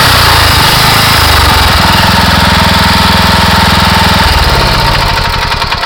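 Small engine of an engine-driven high-pressure washer running at speed, with a steady hiss over it; near the end its firing slows and it winds down.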